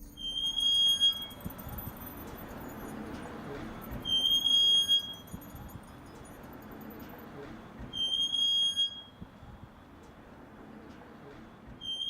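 A wheel squeaking: a high, steady squeal about a second long, heard three times at about four-second intervals, as if once per turn of a slowly turning wheel.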